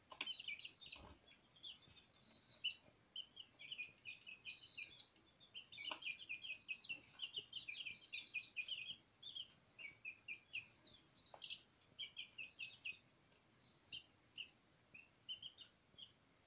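Small birds chirping busily and without a break, many short high notes in quick overlapping runs, with a few faint knocks.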